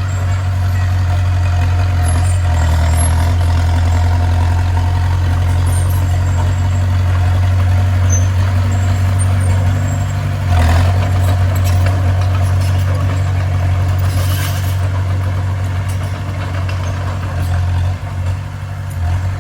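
Bulldozer's diesel engine running steadily with a deep, constant hum, briefly louder about halfway through.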